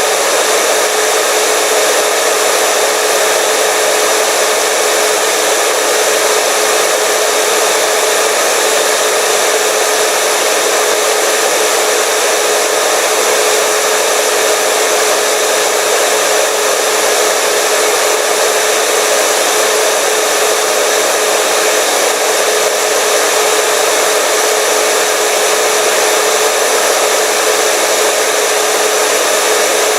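Hair dryer running continuously: a steady, loud blowing rush with a constant motor whine.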